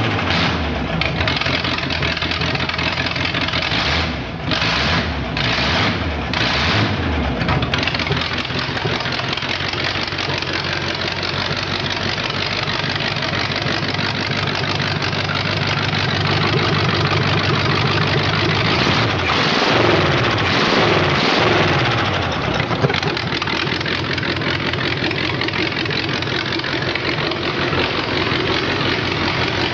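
The engine of a 1982 Oldsmobile that is due for a rebuild, running and being blipped to clear its throat. There are a few quick throttle blips a few seconds in, then it settles to a steady run. About two-thirds through, the revs fall and rise again.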